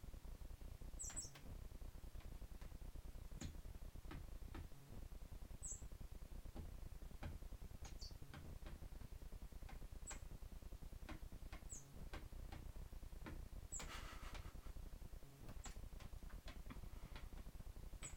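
Common blackbird giving short, thin, very high chirps, one every two seconds or so at irregular intervals, among faint scattered ticks and taps.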